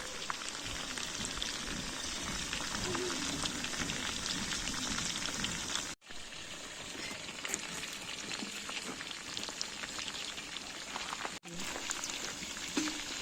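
Hot oil sizzling and spitting in a pan as food fries over a wood fire: a dense crackling hiss full of small pops. It drops out briefly twice.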